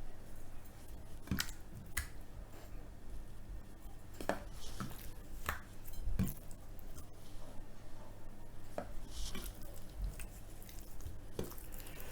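Kitchen utensils and containers knocking and clinking against each other and a bowl, in scattered single taps with a few brief soft rustles, as ingredients are added to chicken thighs for a marinade.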